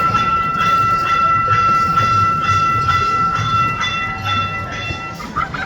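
Gas-powered replica steam train running, with a steady high whistle-like tone held over a regular beat about twice a second; the tone cuts off about five seconds in.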